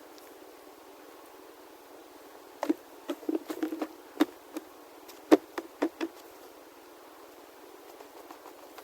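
A run of about a dozen sharp, irregular knocks and taps over a few seconds, starting about two and a half seconds in, above a faint steady hiss.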